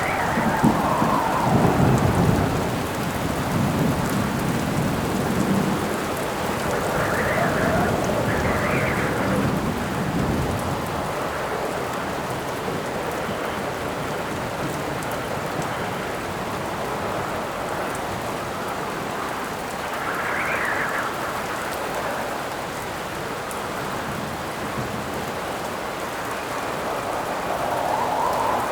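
Steady heavy rain with a low rumble of thunder in the first few seconds. Gusts of wind howl, swelling and fading several times.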